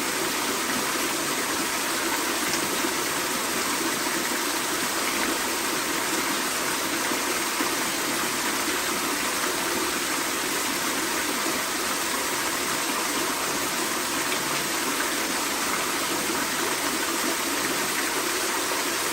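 Small waterfall: water pouring and splashing steadily, with no pauses or changes.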